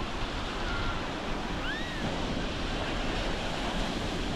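Ocean surf washing onto the beach and wind buffeting the microphone, a steady rushing noise. A couple of brief high calls cut through about one and two seconds in.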